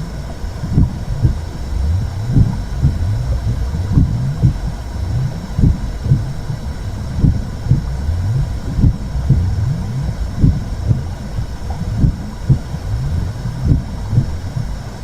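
Womb sound for soothing a baby: a steady low rumbling whoosh with a soft double thump about every second and a half, like a heartbeat heard from inside the body.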